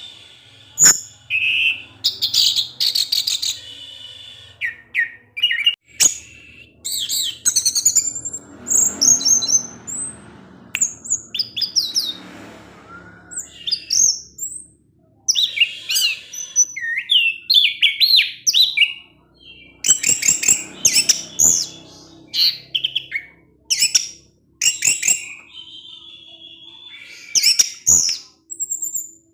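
Orange-headed thrush (anis merah) singing a fast, varied chattering song of high chirps and twittering phrases with short gaps between them, with a few sharp clicks among the notes.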